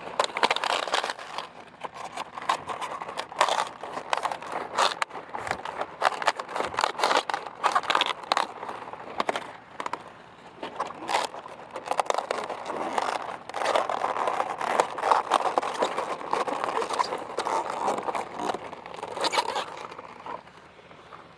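A large garden cabbage being harvested by hand: crisp leaves crackling, snapping and rustling, with many sharp cracks.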